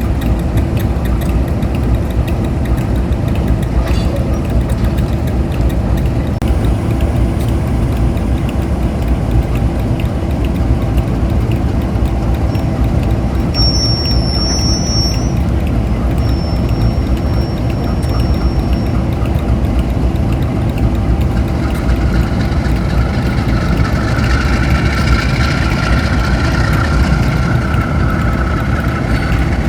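Diesel locomotive engine running steadily with a deep, constant throb. Brief high squeals come around the middle, and a higher whine swells in and fades for several seconds near the end.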